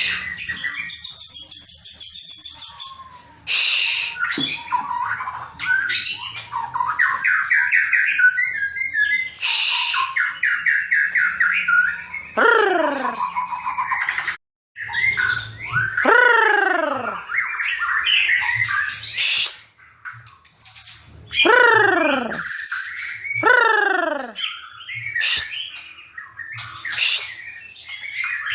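Contest songbird singing a loud, varied song: rapid trills mixed with repeated notes that sweep sharply downward in pitch.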